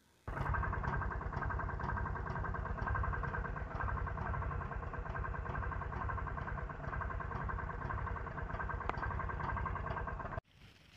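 An engine idling steadily with an even, rapid pulse; it cuts in just after the start and cuts off suddenly near the end.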